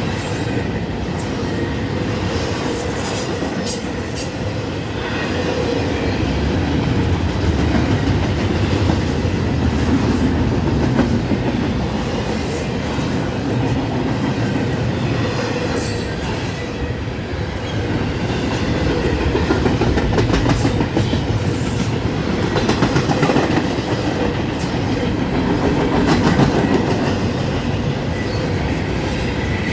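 Freight train cars rolling past at speed, wheels clicking over the rail joints with occasional squeals, over a steady rumble.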